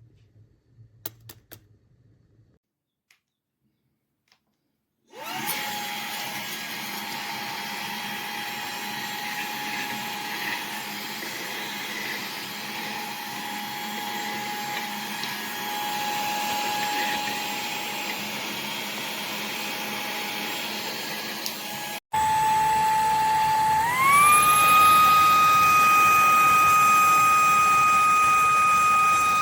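Fanttik Slim V8 Apex handheld cordless vacuum's motor, starting after a few faint clicks and running with a steady high whine. After a brief break it runs louder, and about three quarters of the way through its pitch rises a step and holds.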